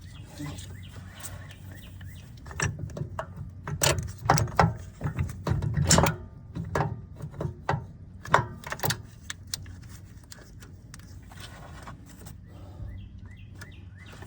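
Scattered sharp clicks and knocks of tools and parts being handled, busiest in the middle few seconds, over a steady low hum.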